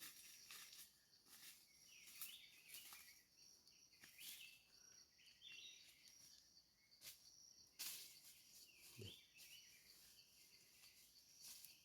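Near silence: faint forest ambience with a steady high insect hum, a few brief bird chirps and scattered soft clicks.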